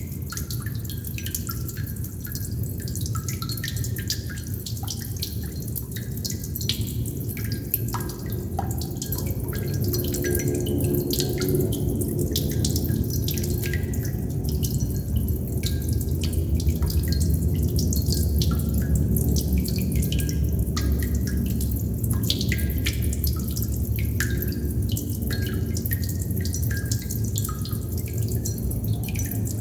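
Water droplets dripping irregularly, each one a short plink, over a steady low rush of water that swells slightly in the middle.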